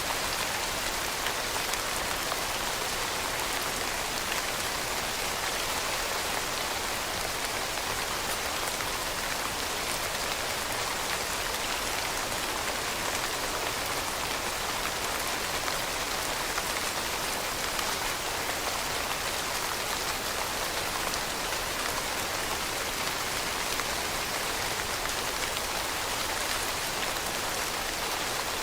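Steady rain falling on a surface: a dense, even hiss made of many fine drops, with no thunder.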